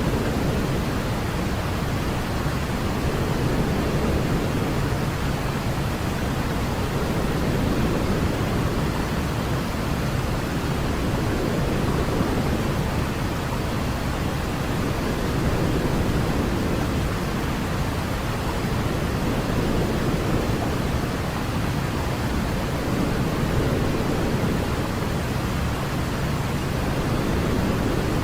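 Steady sleep noise for a baby, a deep hiss weighted toward the low end like pink noise, gently swelling and easing every few seconds.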